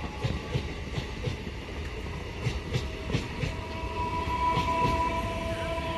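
Electric suburban multiple-unit train passing close by, its wheels clicking over the rail joints in quick, uneven knocks, with a steady tone coming in about four seconds in.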